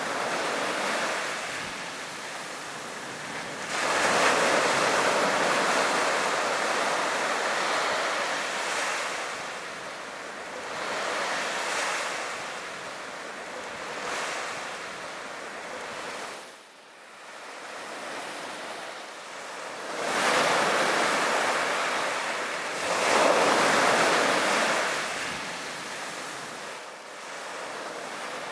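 Sea waves breaking and washing on a beach, the surf swelling and falling in surges every few seconds, with some wind on the microphone.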